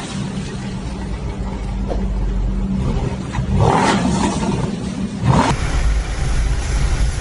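A vehicle engine running with a steady low drone, with two short rushes of noise partway through.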